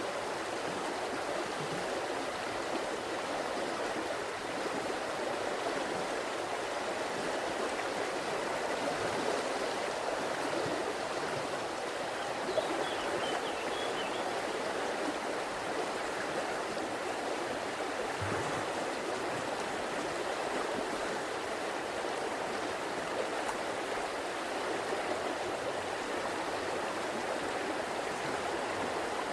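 A river's water flowing over rocks, a steady rushing and gurgling.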